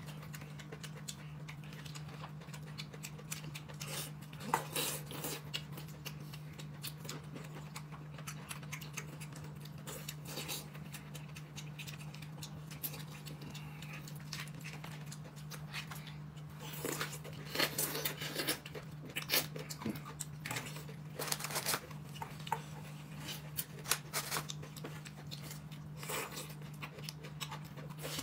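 A person eating close to the microphone: scattered chewing and mouth clicks that grow busier in the second half, over a steady low hum.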